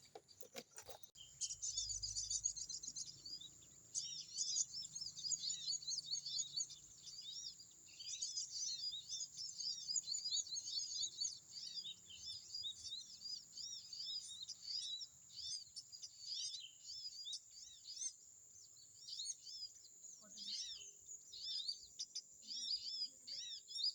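Sunbirds twittering, a dense run of quick high chirps with hardly a pause, over a steady high-pitched whine.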